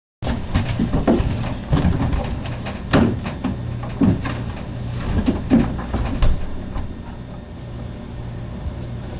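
Several muffled knocks and bumps, about five in the first six seconds, over a steady low hum.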